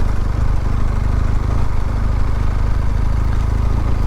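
BMW R1200GS liquid-cooled boxer-twin engine running at a steady, low speed, heard from the rider's helmet microphone.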